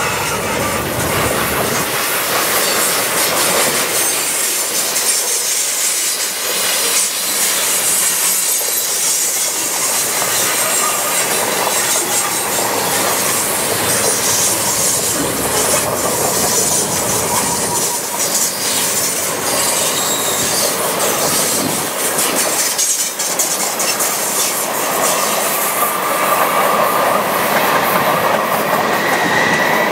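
Freight cars rolling past at close range: covered grain hoppers, then centerbeam flatcars. Their steel wheels keep up a steady rumble and clatter on the rails, and a wheel squeal comes in near the end.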